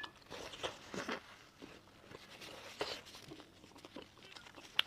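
Close-miked eating sounds: a mouth chewing braised meat, with irregular soft smacks and clicks and one sharp click near the end.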